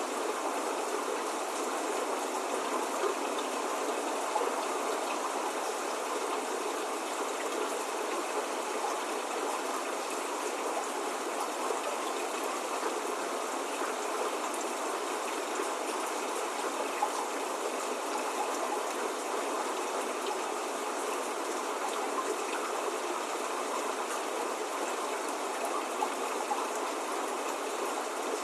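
Steady rain falling without a break, an even hiss with faint scattered drop ticks and no thunder.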